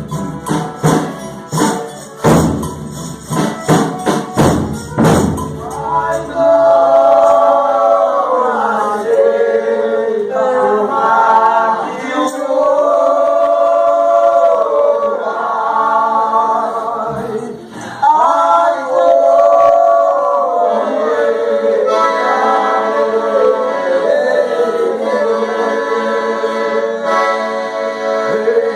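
Folia de Reis group: rhythmic instrumental strokes with tambourine for the first five seconds or so, then several voices singing long held notes together in harmony, the lines sliding at the ends of phrases.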